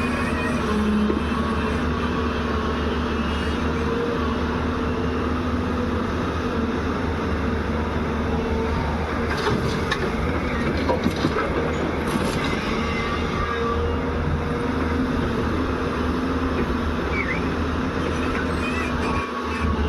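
Excavator diesel engine running steadily under working load, with a low drone, and a few short knocks about halfway through, such as a bucket striking soil or rock.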